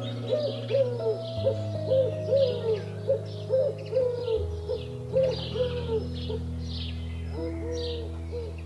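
Rock pigeon cooing: a run of short hooting coos, about two a second with brief pauses, over a soft sustained synth chord.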